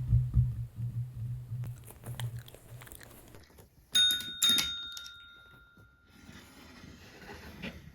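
A desk call bell is struck twice, about half a second apart, some four seconds in, and its ring fades over a second or two: a dog ringing it to demand a treat. A low pulsing hum fades out over the first few seconds.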